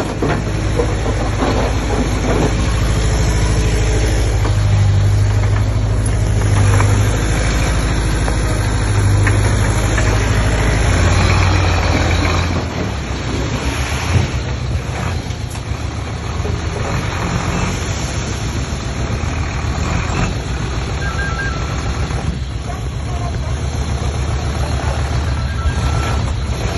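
Diesel engine of a Komatsu D20P bulldozer working, its note rising and falling with the load. About halfway through, the engine note changes and gets a little quieter.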